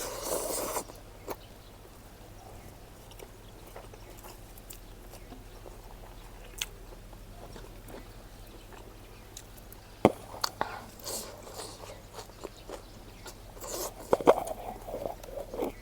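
Close-miked eating sounds: chewing and mouth smacks of a meal of smoked pork, with a few sharp clicks. There is a burst at the start, a quieter stretch in the middle, and denser clusters of chewing and clicks in the last third.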